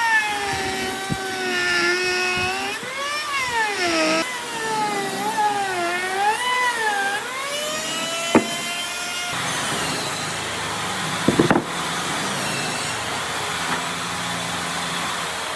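Handheld power tool working wood: its motor whine dips and rises in pitch as the load changes, then gives way to a steady rushing noise about nine seconds in, with a sharp click just before and a short rattle a couple of seconds later.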